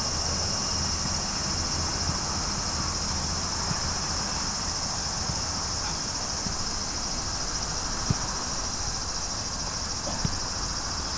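A steady, high-pitched chorus of insects chirring without a break, with two short sharp knocks about eight and ten seconds in.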